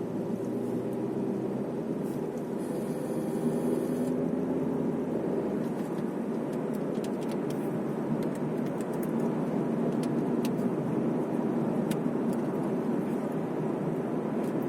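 Steady road and tyre noise inside a moving car, with engine hum in the first few seconds and a few light clicks later on.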